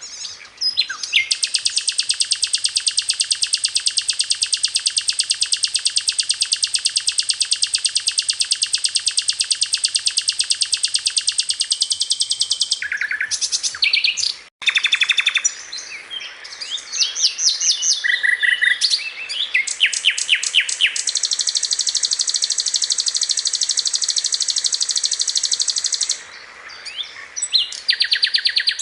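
Sikatan londo (a flycatcher) singing: a very rapid, high trill held for about eleven seconds, then a run of shorter varied chirps and notes, then a second rapid trill of about five seconds.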